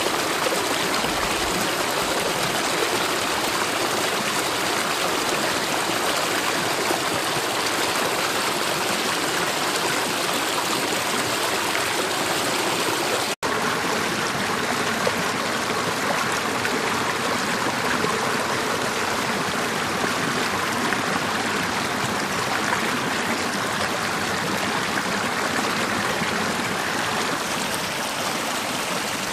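Mountain gorge stream flowing with a steady, even rushing of water. There is a momentary dropout to silence about halfway through.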